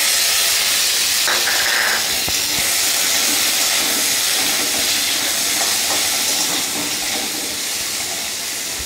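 Diced raw potatoes sizzling in hot mustard oil in a metal karai: a loud, steady hiss that slowly fades as they are stirred, with light scrapes of the spatula against the pan.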